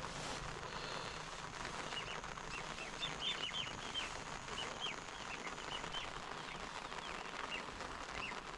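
A small bird chirping over and over in short, high, falling notes, over a steady outdoor hiss.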